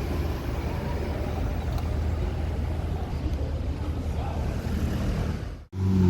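A car engine running with a steady low rumble amid street traffic. Near the end the sound drops out for a moment and comes back louder, with an engine note that falls slowly in pitch.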